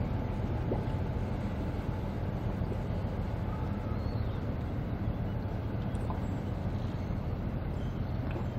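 Steady low rumble of a long river boat's engine running as it passes.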